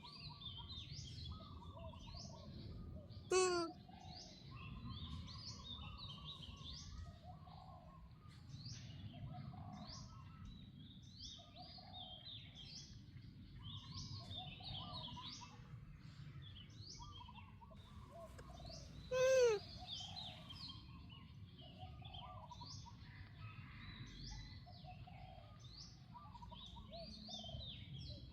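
Many birds chirping over a low outdoor rumble, with two much louder, short pitched calls about three seconds in and again about nineteen seconds in.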